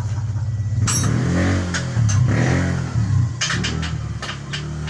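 Car engine running, revving up and settling back about a second and a half in, with a few sharp clicks over it.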